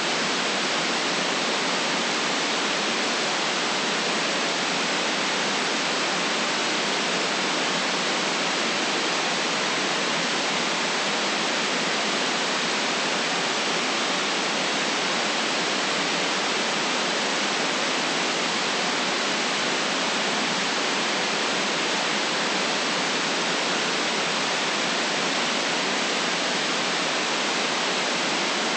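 Steady white noise for sleep: a constant, even hiss that never changes in level, with little deep bass.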